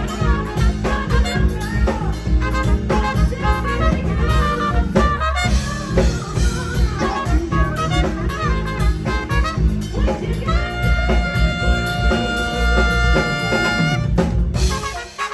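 Live band playing an instrumental passage with drum kit and bass. A long held note rings out from about two thirds in, then the music cuts off just before the end.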